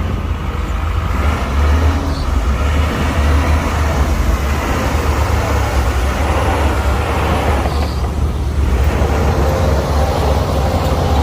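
Heavy diesel earthmoving machinery running steadily, a loud deep engine drone with a broad mechanical noise above it.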